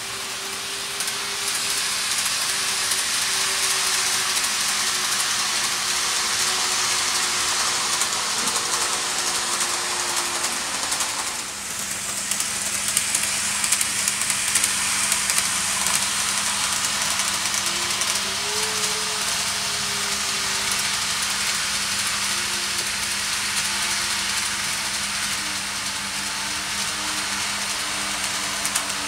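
Train running: a steady rushing hiss with a faint motor whine that wavers in pitch, rising and then falling about two-thirds of the way through, and a few light clicks.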